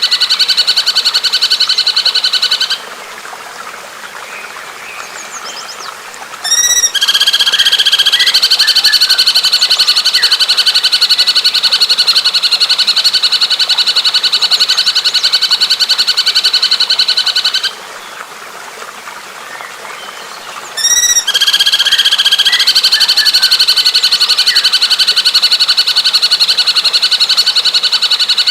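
A bird giving a long, very fast rattling trill on a steady pitch, held for about ten seconds at a time. It breaks off twice for a few seconds, and each new trill opens with a quick run of rising notes.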